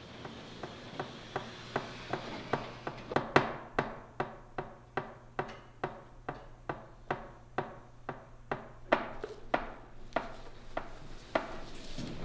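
Footsteps on a hard floor, a quick even pace of about two to three steps a second, growing louder a few seconds in, fading, then louder again near the end.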